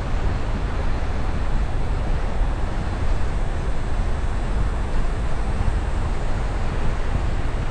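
Wind buffeting the microphone: a steady, fluttering low rumble under a dense rushing noise.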